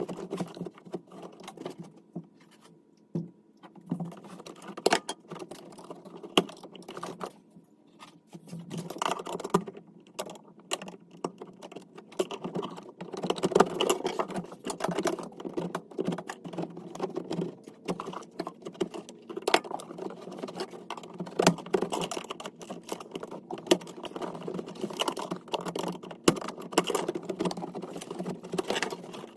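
Dense, irregular clicking and rattling from hand work on a Volkswagen Beetle's wiring harness: wires, connectors and tools being handled and pulled loose, with short pauses now and then.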